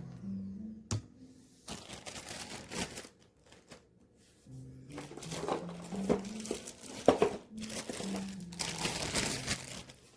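Irregular crinkling and rustling handling noises in bursts, with a few sharp clicks, the loudest about seven seconds in.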